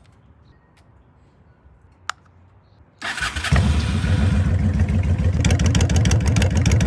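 A faint click, then about three seconds in the Honda Shadow 750's V-twin engine is cranked by its electric starter, catches within half a second and settles into a steady, even idle: a warm-up before the oil is drained.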